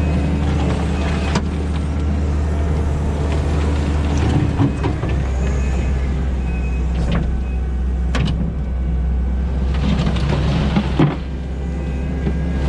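Diesel engine of a Kubota SVL90-2 compact track loader running steadily under load while it digs with a tooth bucket. The engine note shifts twice, about five seconds in and near the end, and a few sharp clanks of steel on stone cut through.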